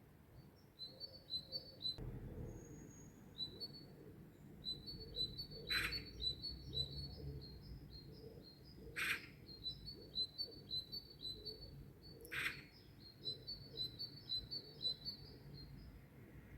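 Songbirds chirping in rapid runs of short high notes, with three sharp clicks about three seconds apart and a low rumble underneath.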